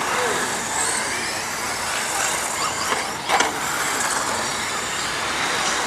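Radio-controlled stadium trucks racing, their motors whining and rising and falling in pitch, with a sharp knock a little over three seconds in.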